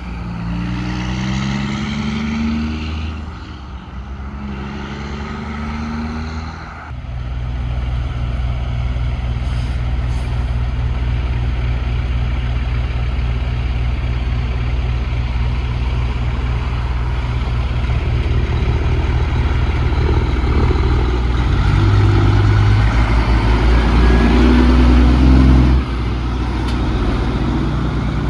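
Truck engine pulling away and climbing in pitch twice as it shifts up, then running at a steady low drone that grows louder before dropping off sharply near the end.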